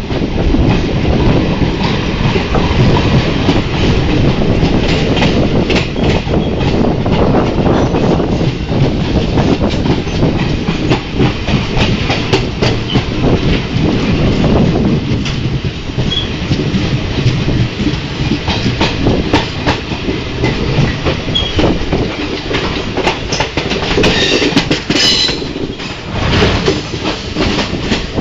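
Passenger train heard from on board, running along the track: steady rumble with the clickety-clack of wheels over rail joints. About 24 seconds in, a brief high-pitched tone rises over the noise.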